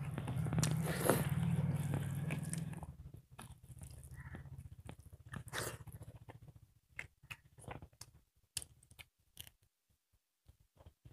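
Close-miked mouth sounds of people eating rice and sukuti (dried buffalo meat) with their hands: chewing, smacking and small crunches. A low buzzing sound runs for about the first three seconds, then only scattered clicks and smacks.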